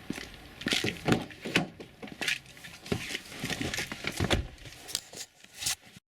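Irregular clicks, knocks and rustles of handling at close range, the sharpest clustered about a second in and again past four seconds.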